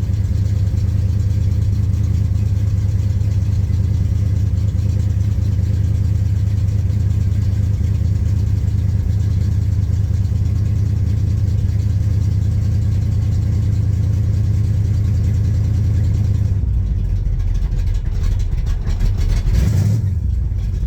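Chevrolet 350 small-block V8 with a big roller cam, idling cold without a choke: a steady, lumpy idle from a cam the owner calls a thumper. About 16 seconds in the idle turns rougher and uneven, with a brief rise in revs near the end, the cold engine still running a little temperamental.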